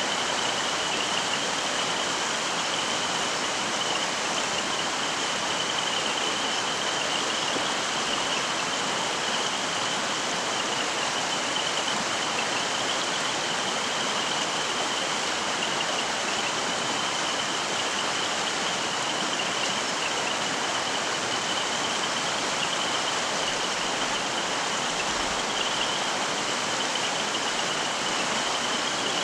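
Mountain stream flowing, a constant even rush of water with a steady high-pitched note running through it.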